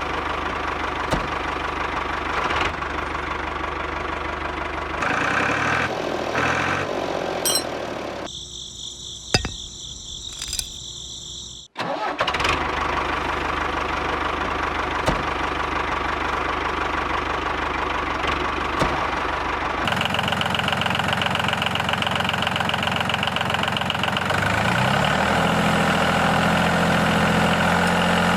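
Mini tractor's motor running steadily, broken by abrupt changes and a nearly quiet stretch with a few clicks about eight to twelve seconds in. The pitch rises near the end.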